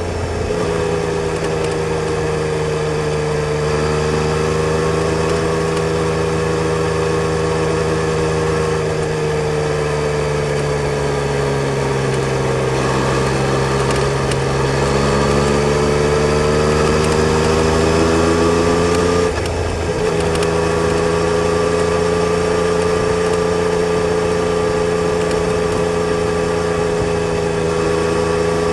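Yamaha Tracer 900 GT's three-cylinder engine running at a fairly steady speed, its note sagging slowly and rising again. A brief break about two-thirds of the way through is followed by a steady note again.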